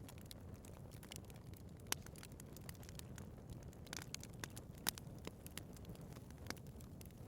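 Wood fire crackling in a fireplace: a steady low rumble of burning with frequent sharp pops and snaps, two louder pops about two and five seconds in.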